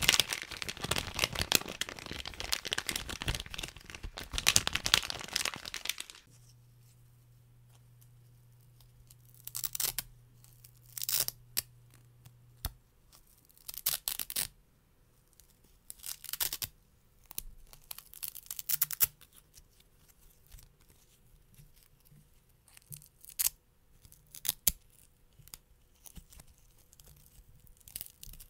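A plastic bag crinkled and crumpled close to the microphone for about six seconds, then, after a pause, Velcro strips pulled apart in a series of short rips, one every second or two.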